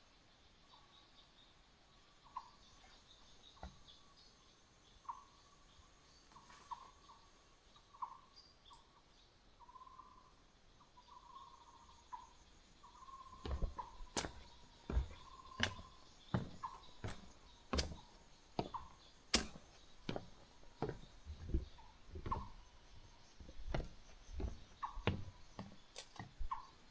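Footsteps on a hiking trail, a few at first and then steady at about two steps a second from about halfway, each a sharp crunch or tap. Short, repeated bird notes sound in the first half.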